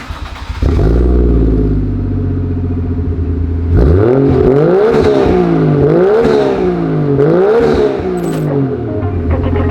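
Toyota Chaser Tourer-V's turbocharged 1JZ-GTE straight-six catches and fires up about half a second in, through a Kakimoto Hyper Fullmega N1 cat-back exhaust. Its revs settle into a steady idle. From about four seconds in it is blipped three times in a row, each rev rising and falling, then it drops back to idle.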